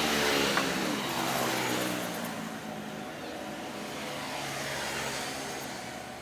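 A motor vehicle passes by, its engine note dropping in pitch as it goes past. A second vehicle swells and fades near the end.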